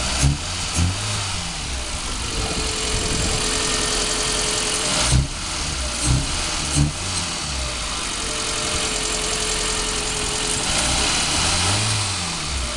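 Maruti Suzuki Zen petrol engine running and being revved in blips, its pitch rising and falling near the start and again near the end, with a couple of sharp knocks around the middle. The engine is being checked for a misfire after water got to its spark plugs.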